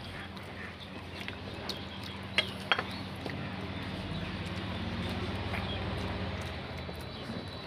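Eating at a meal table: two sharp clinks against a plate about two and a half seconds in, with a few faint ticks, over a steady low hum.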